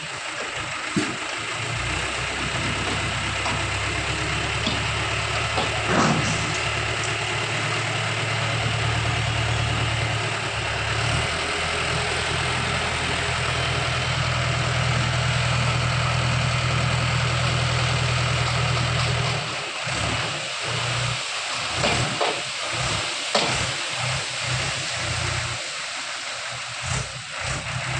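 Diesel tractor engine running steadily. About twenty seconds in, the steady sound breaks up and a series of knocks and thumps follows.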